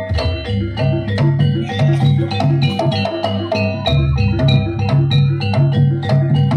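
Jaranan accompaniment music: a gamelan-style ensemble with tuned metal percussion striking fast, evenly repeating notes over drums and a pulsing low beat.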